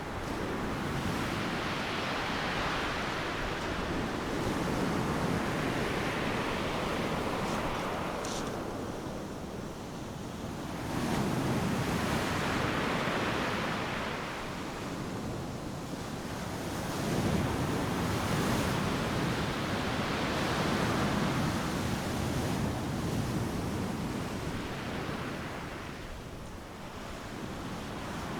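Ocean surf breaking on a beach: a steady wash of waves that swells and eases every five or six seconds as each wave comes in.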